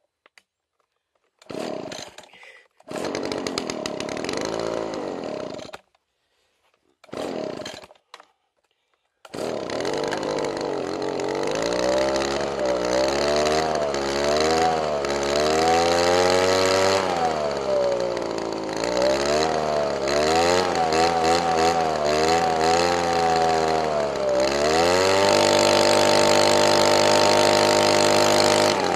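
Small engine cold-starting: it fires and dies three times, once running for a few seconds, then catches about nine seconds in. It runs with its speed rising and falling unevenly, then settles into a steady fast idle near the end.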